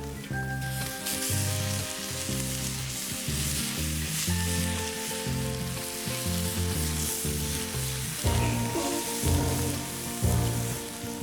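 Kimchi stir-fry sizzling in an iron frying-pan dish, the sizzle growing stronger about a second in. Background music with a steady bass line plays underneath.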